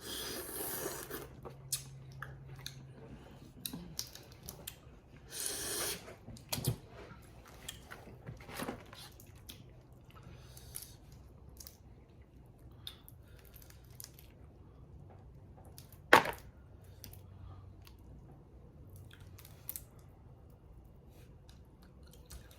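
Crawfish being peeled and eaten close to the microphone: shells cracking and tearing, and chewing. There are two short rustling bursts, one at the start and one about five seconds in, and scattered sharp cracks; the loudest crack comes about sixteen seconds in.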